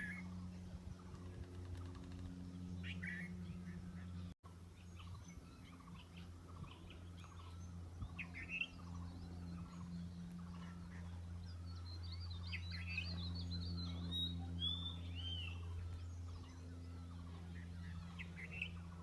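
Wild birds chirping and calling on and off, with a quick warbling trill about two-thirds of the way through, over a steady low hum.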